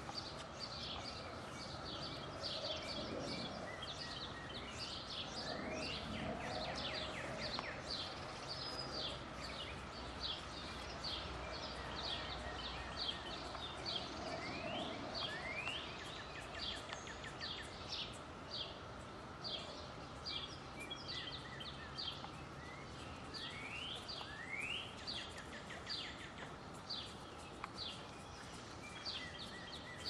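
Several songbirds chirping and singing at once: quick, repeated short chirps throughout, with a few rising whistled notes.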